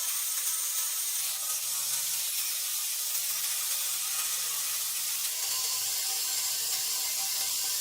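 A steady hiss, strongest in the high range, holding at an even level with a faint low hum under it from about a second in.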